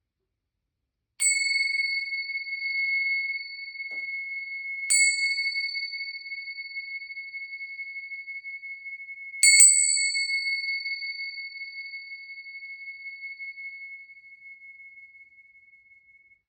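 Zanmai-kin struck three times, about a second in, at about five seconds and at about nine and a half seconds, each strike ringing one clear high tone at the same pitch. The third strike is the loudest, and its ring dies away slowly.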